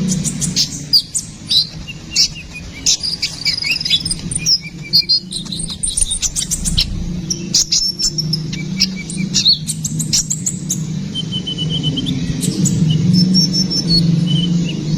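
Konin kolibri ninja sunbird singing: a quick run of sharp, high chirps and short trills, over a steady low hum.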